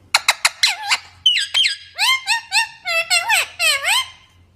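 Parrot calling: a quick run of sharp chirps, then a string of shrill whistled squeaks that bend up and down in pitch.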